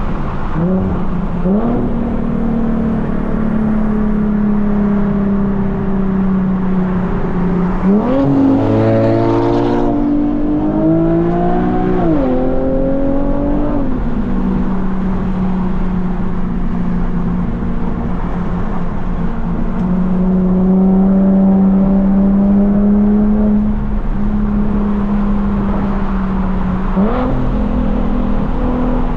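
Infiniti G37 Coupe's 3.7-litre VQ V6 running through a full titanium Tomei exhaust. It holds a steady drone while cruising, with the revs climbing and dropping through gear changes about a third of the way in, and climbing again near the end.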